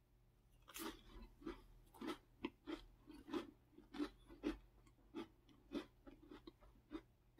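Person chewing a crisp round cracker with the mouth closed: a run of short, sharp crunches, about three a second, starting after a brief pause.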